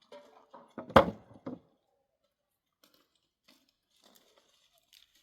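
A single sharp thump about a second in, among a few fainter knocks and rustles, then near quiet.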